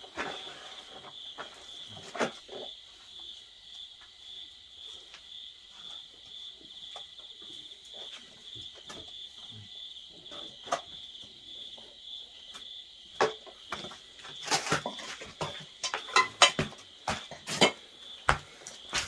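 Insects chirping steadily in a high, evenly pulsed trill. Scattered sharp knocks and clicks sound over it, coming thick and loud over the last five seconds.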